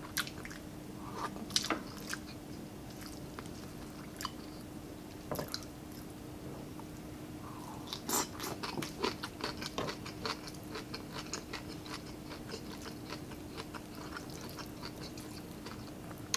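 Close-up mouth sounds of a person eating by hand: chewing and biting on pork pinaputok and rice, with wet clicks and smacks, scattered at first and then a dense run about halfway through. A faint steady hum runs underneath.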